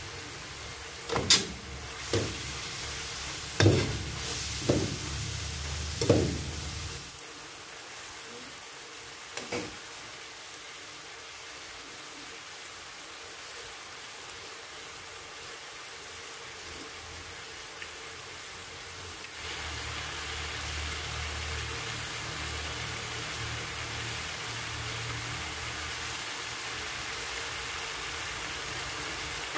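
Pork and eggplant frying in a pan with a steady sizzle. About six sharp knocks come in the first several seconds and another a few seconds later. The sizzle grows louder about two-thirds of the way in.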